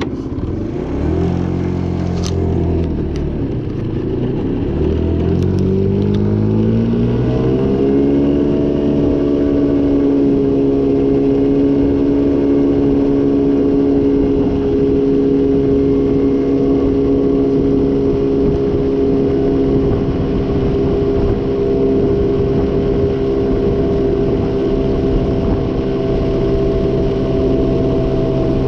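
GY6 50cc single-cylinder four-stroke scooter engine running cold: uneven at low speed for the first few seconds, then revving up about five seconds in and holding a steady higher speed. The engine won't idle on its own while it is still cold.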